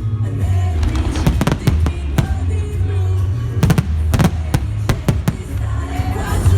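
Fireworks bursting in a rapid series of sharp bangs and crackles over loud music played through the show's loudspeakers.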